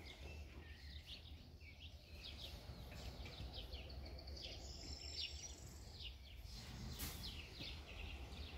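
Small birds chirping faintly, many short quick chirps and a brief thin whistle near the middle, over a low steady outdoor rumble.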